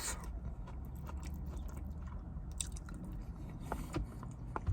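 A person chewing and biting fast food close to the microphone, with wet mouth sounds and scattered small crackly clicks.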